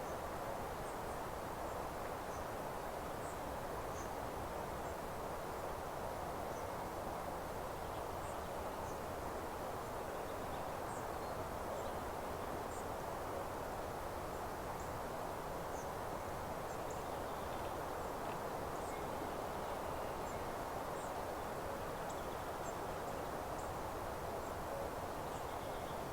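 Meadow ambience: a steady, even hiss with faint, scattered high-pitched chirps of small birds throughout.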